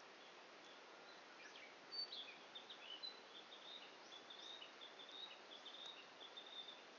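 A small songbird twittering: a quick run of short, high chirps over faint steady background hiss.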